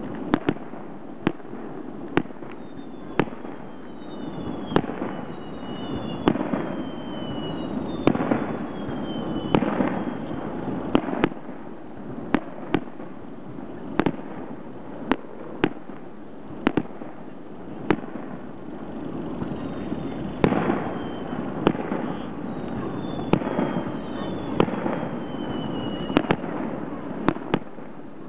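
Starmine fireworks display: aerial shells bursting in quick succession, a sharp bang about once a second with crackling between. Several high whistles fall in pitch over the bursts, in two clusters, early and in the second half.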